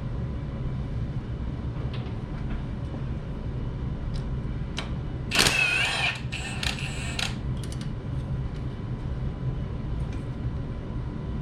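Hand tools working 11 mm exhaust header bolts loose, with scattered metallic clicks and a louder squealing whir about halfway through, over a steady low hum.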